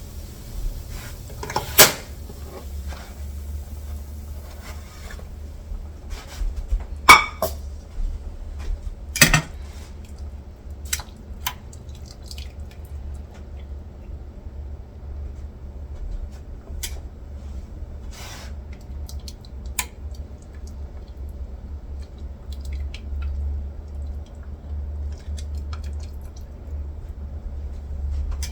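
Scattered clicks and knocks of kitchen utensils and dishes, the sharpest about 2, 7 and 9 seconds in, over a steady low hum.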